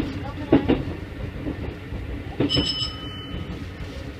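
Keikyu 1500-series electric train running, heard from the cab: a steady running rumble with sharp knocks of the wheels over rail joints, a pair of them about half a second in and another about two and a half seconds in. A brief high-pitched ringing tone sounds for about a second from that last knock.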